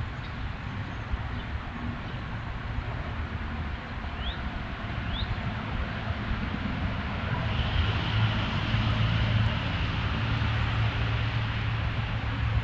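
A low engine hum in the background, growing louder about halfway through, with two short rising bird chirps near the middle.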